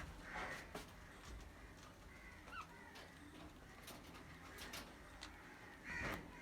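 Budgerigars calling faintly: a short harsh squawk at the start and another near the end, a small chirp in between, and scattered light clicks.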